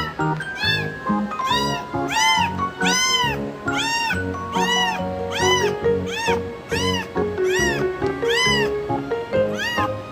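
Cat meows repeated about twice a second, each a rising-then-falling call, over background music.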